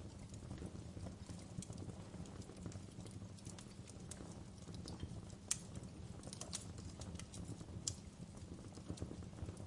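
Wood fire burning, with a steady low rumble and scattered sharp crackles and pops, two louder pops about five and a half and eight seconds in.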